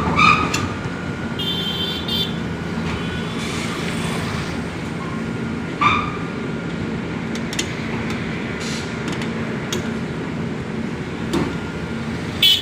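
A heavy diesel engine running steadily with a low hum, with a few short high-pitched chirps over it.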